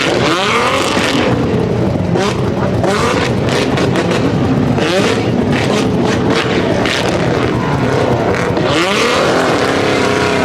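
Performance car engine revving hard again and again, its pitch sweeping up and down, with sharp exhaust pops and bangs cracking through the noise.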